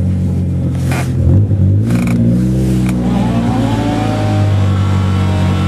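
Car engine running with a steady note, its revs dipping and rising again between about one and three seconds in.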